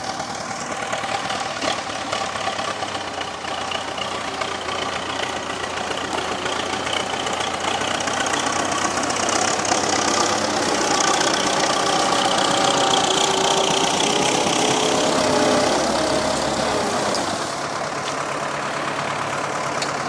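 A vehicle engine running steadily, growing louder through the middle and easing off about three quarters of the way through.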